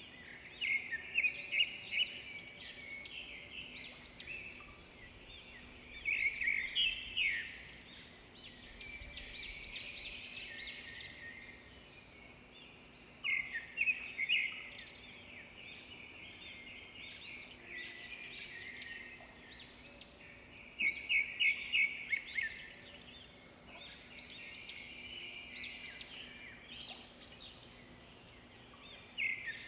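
Small songbirds chirping and singing, with several loud bursts of quick repeated chirps every six or seven seconds and softer calls between them. A faint steady hum runs underneath.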